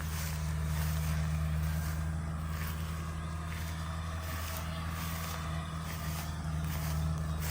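Kubota DC70G Plus combine harvester's diesel engine running at a steady, even drone.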